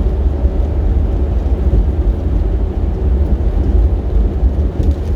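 Steady low rumble of a vehicle driving at speed: road and wind noise, loud and strongest in the deep bass.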